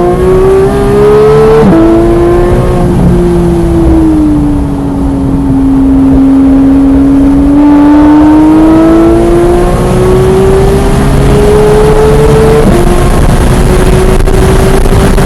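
Porsche 911 GT3 (991.1) flat-six running hard at track pace. The revs climb and drop sharply at an upshift shortly after the start, ease down and back up through the middle, then climb again to a second upshift near the end.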